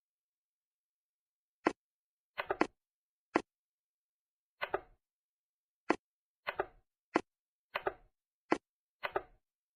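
A series of short, sharp clicks, about ten of them and some in quick pairs, coming irregularly every half second to a second, with dead silence between.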